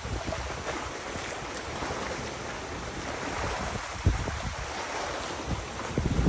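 Wind buffeting the microphone in gusts over a steady rush of river water, with heavier gusts about four seconds in and near the end.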